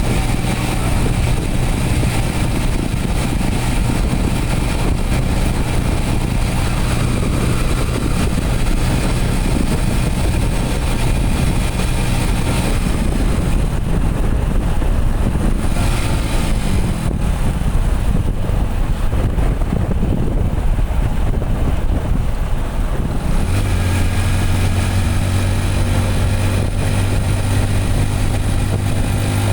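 Motorcycle engine running under way with steady road and wind noise. Partway through the engine note shifts and falls as the bike eases off, then it settles into a strong, steady pitch again near the end.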